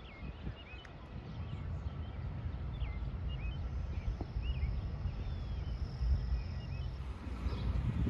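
Small birds chirping in short, quick repeated calls, most of them in the first half, over a steady low outdoor rumble.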